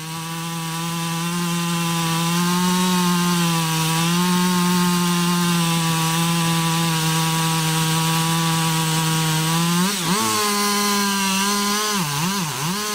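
Chainsaw cutting through a large tree trunk, its two-stroke engine running steadily at high speed under load. Its pitch dips briefly about ten seconds in and twice more near the end as the engine bogs in the cut.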